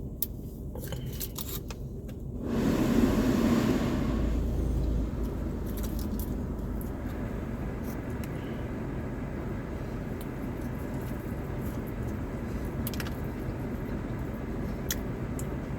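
A steady low rumble starts suddenly about two and a half seconds in, loudest for the first second or so, then settles and continues. A few small clicks come before it.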